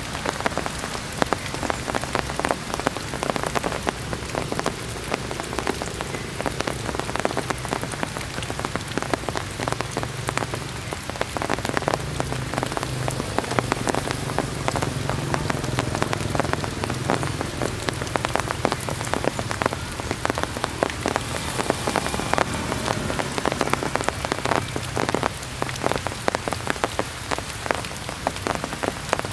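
Heavy rain falling steadily, a dense patter of many drops hitting surfaces.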